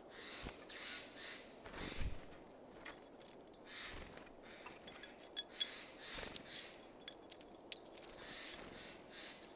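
Wild birds at a feeder: a run of short harsh calls about every half second, sharp taps and clicks, and a few faint high chirps.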